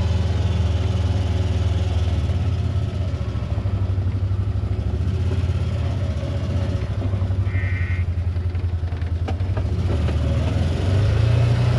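A vehicle engine running steadily at low revs, picking up a little near the end, with a brief high tone about two-thirds of the way through.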